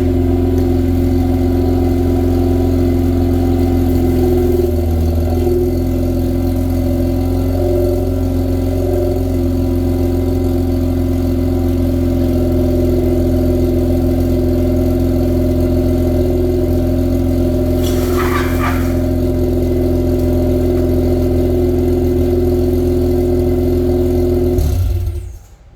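Mazda RX-8's Renesis two-rotor rotary engine idling steadily through headers, a straight-pipe mid-section and a new DNA Motoring axle-back muffler, which tones the idle down a lot. The engine stops about a second before the end.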